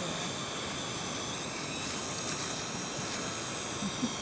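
Steady high-pitched whine of a small hobby drone's motors and propellers in flight, heard over a steady rushing noise of wind.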